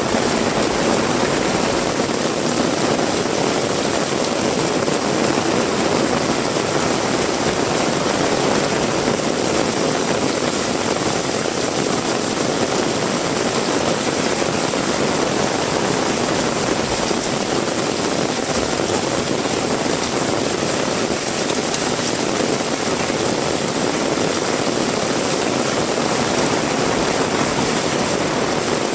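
Heavy rain falling steadily: an even wash of noise that holds at one level without breaks.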